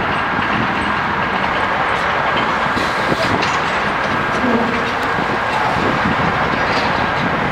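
Steady rushing noise of an approaching freight train, still far off, led by two GE diesel locomotives (an ES44AH and an AC44CW).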